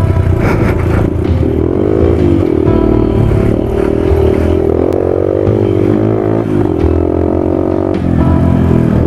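2013 Yamaha WR250F's single-cylinder four-stroke engine being ridden off-road, revving up and down repeatedly as the throttle opens and closes. A brief dip comes about eight seconds in, then it picks up again.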